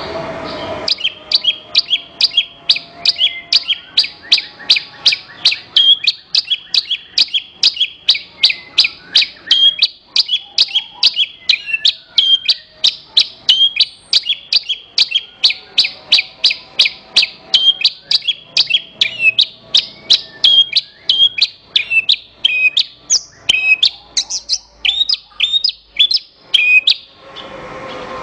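Javan bush lark (branjangan) singing a long, fast run of sharp repeated chirps, about three a second, turning to more varied, sliding notes near the end.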